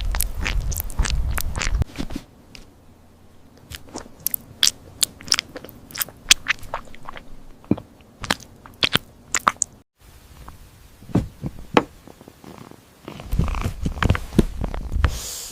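Crunchy chewing and biting: a string of sharp, crisp bites, with a low rumble under them at the start and again near the end.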